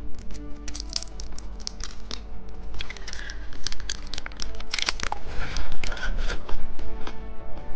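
Candy wrapper crinkling and tearing as it is handled and opened: a dense run of irregular crackles.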